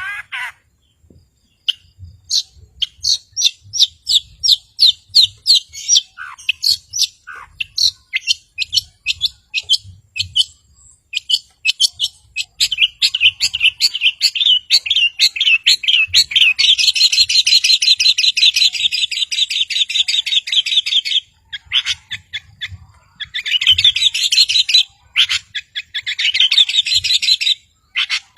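Long-tailed shrike singing: strings of quick repeated high notes that run into long, rapid trills in the middle and again near the end.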